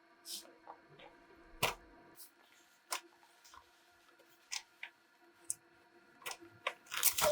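Scattered light clicks and taps of small objects being handled, the sharpest about a second and a half in and a quick cluster near the end, over a faint steady hum.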